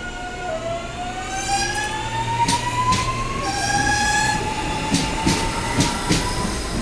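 Electric commuter train accelerating: its traction motors give a whine that rises steadily in pitch, drops back and climbs again twice. Sharp clacks of the wheels over rail joints come in partway through.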